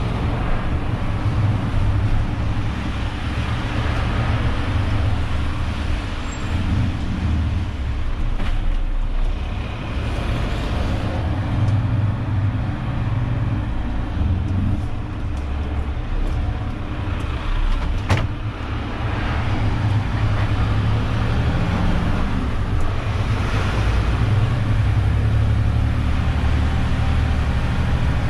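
Renault truck's diesel engine running under way in city traffic, a steady low drone that rises and eases with the throttle. A single sharp click sounds about eighteen seconds in.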